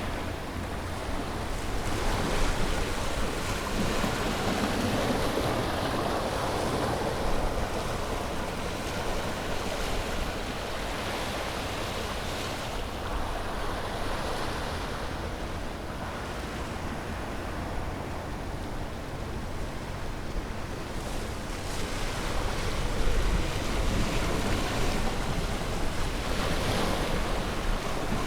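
Sea waves breaking and washing onto a beach, the surf swelling and easing in slow surges, with a low rumble of wind on the microphone.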